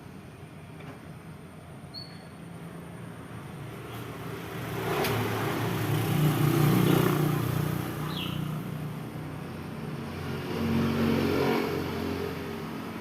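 A motor vehicle, car or motorcycle, passes by twice: its engine noise swells and fades over a few seconds, once about five seconds in and again near the end, over steady background noise.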